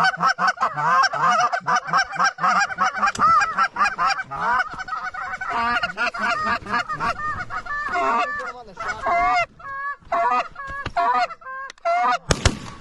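A flock of geese honking, many voices overlapping at first and thinning to scattered honks in the second half. A single sharp bang sounds near the end.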